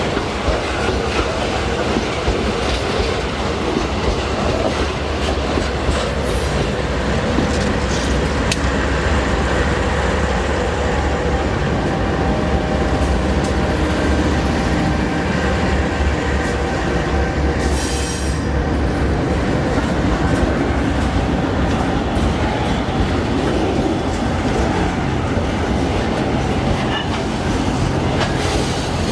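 MRS freight train rolling past, a steady loud noise of wagons and steel wheels on the rails that keeps up without a break.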